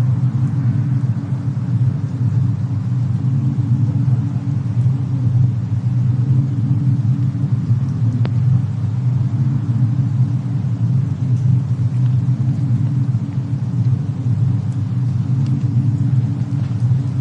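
Steady low rumble of a cabin fireplace-and-snowstorm ambience. A few faint crackles sit over it, one sharper about eight seconds in.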